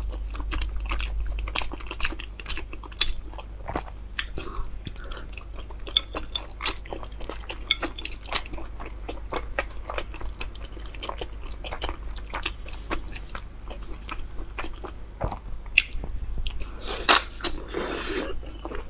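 Close-miked chewing of soup dumplings: wet mouth smacks and many small lip clicks, with a longer slurp near the end.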